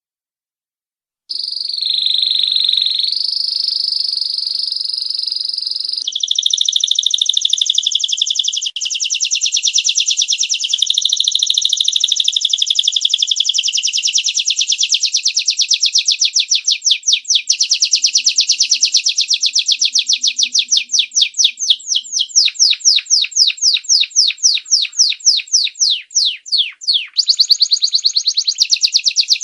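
Domestic canary singing, starting about a second in: a few seconds of held whistled notes, then a long rapid trill that slows gradually into separate chirps, with a faster rolling phrase near the end.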